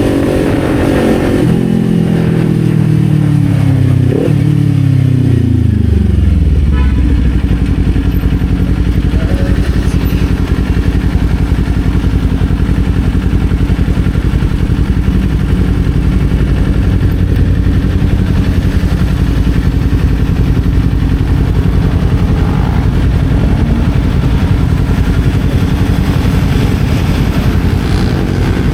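Kawasaki Z400's parallel-twin engine heard from the rider's position, its pitch falling for several seconds as the bike slows off the throttle, with a brief rev blip about four seconds in. It then settles into a steady low-rev note.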